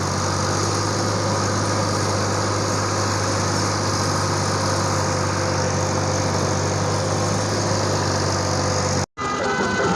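An engine running steadily at close range, a low, even hum with a hiss over it. It cuts off abruptly about nine seconds in.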